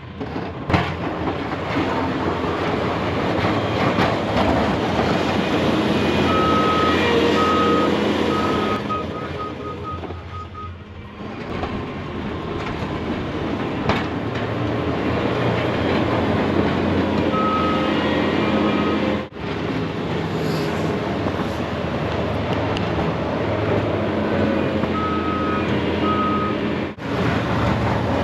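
Skid steer loader clearing snow: its engine running steadily under load, with the reverse alarm beeping in spells as it backs up, three times over.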